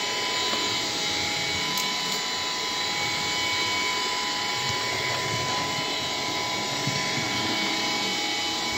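Bissell PowerGlide cordless stick vacuum running on its low power setting with the brush roll switched off: a steady rush of suction air with a constant motor whine.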